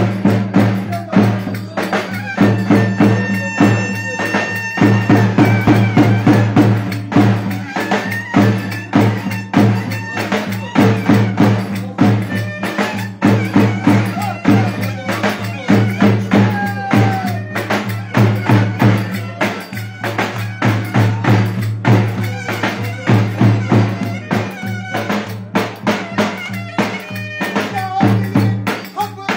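Live wedding dance music: a fast drum beat over a steady low drone, with a melody instrument playing above.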